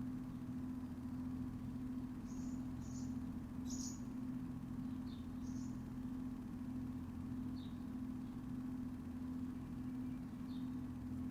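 A steady low mechanical hum with a held pitched drone, with short, high bird chirps coming every second or two.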